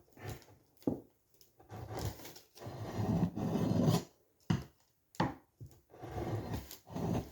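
Sharpening oilstone rubbing along the steel edge of a billhook blade in a series of uneven scraping strokes, the longest about a second and a half near the middle.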